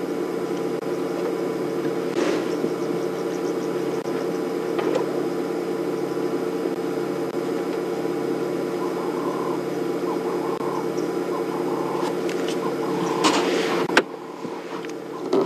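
Safari vehicle's engine idling with a steady low hum. A brief knock comes near the end, after which it is quieter.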